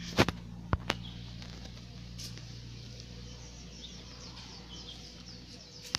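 Outdoor ambience: small birds chirping repeatedly in the background over a steady low hum, with three sharp clicks in the first second.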